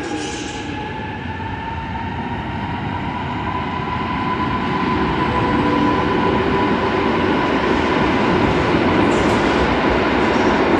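Electric train running, with a motor whine that rises slightly in pitch over a rumble that grows louder about halfway through.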